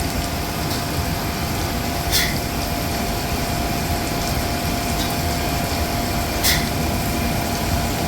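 Hydraulic servicing pump running steadily as it fills a Boeing 767-400's center hydraulic reservoir, a constant machine noise with one steady tone. Two short sharp ticks sound over it, about two seconds and six and a half seconds in.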